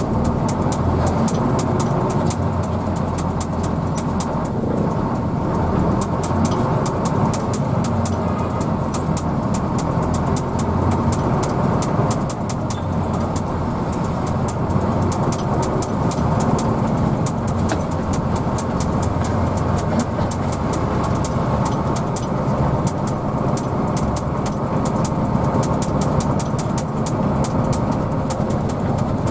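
Hino AK bus running steadily, with a fast, irregular light clicking over the engine noise.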